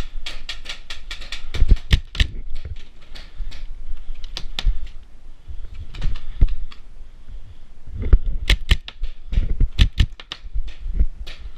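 Paintball markers firing, with sharp pops coming singly and in rapid strings of several shots.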